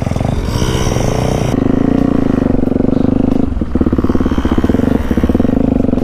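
Motorcycle engine running at low riding speed, its firing pulses steady, easing off briefly a couple of times and picking back up.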